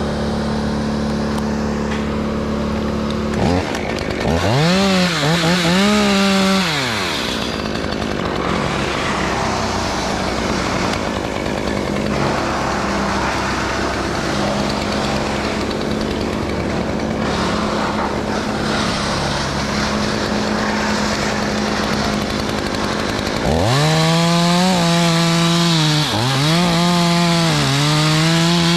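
Gas chainsaw revving and cutting into hickory wood. There is a burst of revs about four seconds in, then a busy stretch of engine and cutting noise, then a long full-throttle cut from about three-quarters of the way through, where the pitch dips briefly as the chain bites.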